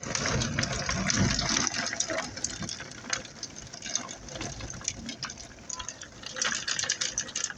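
Rain falling and splashing, with many small drops ticking and pattering; heavier in the first two seconds.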